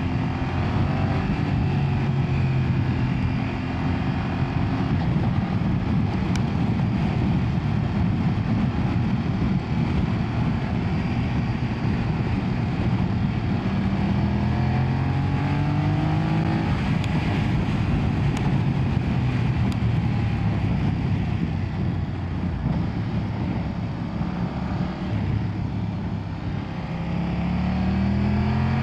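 BMW F900R's 895cc parallel-twin engine running under way, rising in pitch as it pulls through the revs three times and holding steady between, with a steady rush of wind noise.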